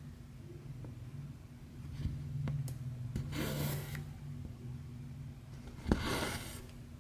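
Embroidery floss pulled through 11-count cross-stitch fabric twice, a short rasping swish each time, about three and a half seconds in and again about six seconds in. A few light ticks and a low steady hum run underneath.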